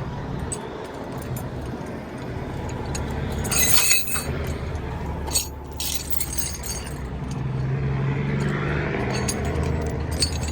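Diesel truck engine idling steadily, with metal tow chains clinking and jangling now and then as they are handled, and a loud rattling burst about four seconds in.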